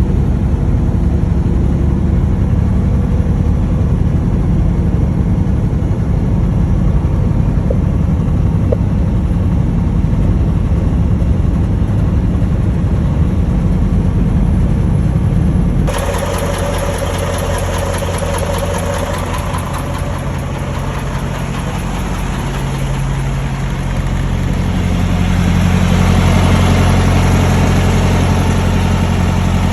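Semi-truck diesel engine running under way, a steady low drone with road noise. About halfway through the sound changes suddenly to a brighter hiss, and it grows louder near the end.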